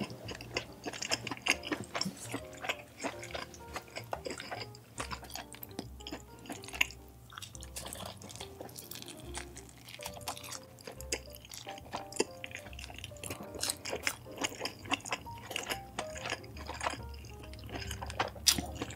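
Close-miked chewing and eating mouth sounds, many short clicks, over light background music.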